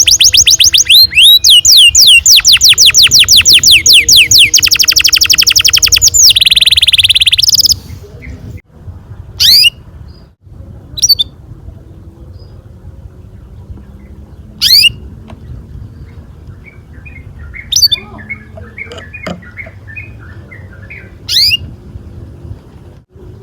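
Domestic canary singing long rolling trills of rapid repeated notes, changing rhythm a few times, then stopping about eight seconds in and giving only single short chirps every few seconds.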